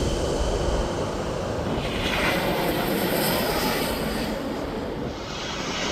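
Four-engine Airbus A340 jet airliner on landing approach passing overhead, its engine roar slowly fading as it moves away.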